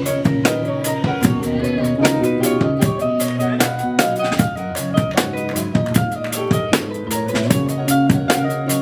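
Live band playing an instrumental passage: a drum kit with bass drum and snare keeps a steady beat over held bass and keyboard-range notes.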